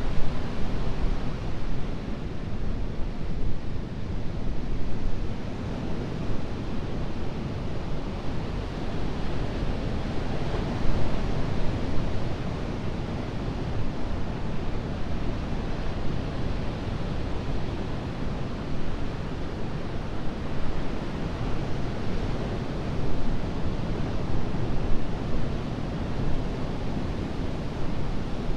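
Ocean surf breaking and washing ashore in a continuous rumbling wash, swelling gently now and then, with some wind buffeting the microphone.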